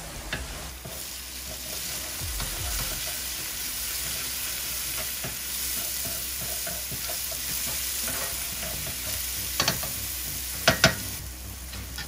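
Onions, garlic and ginger paste sizzling in hot oil in a stainless steel pan while a spoon stirs them, a steady frying hiss. Near the end come two quick pairs of sharp knocks, the loudest sounds.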